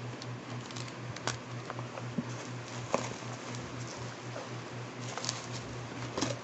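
Steady rain patter with occasional crinkles and taps of bubble wrap and plastic packaging being handled.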